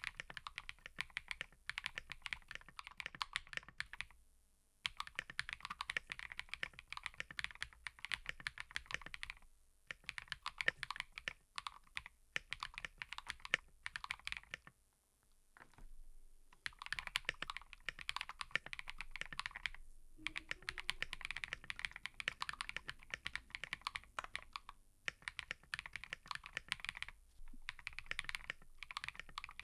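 Fast typing on a mechanical keyboard: dense runs of key clicks and clacks that break off in short pauses four times.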